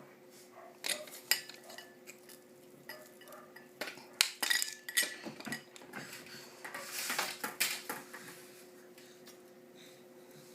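Clinking and clattering of dishes and cutlery: a run of sharp knocks, some with a brief ring, from about a second in until near eight seconds, over a steady low hum.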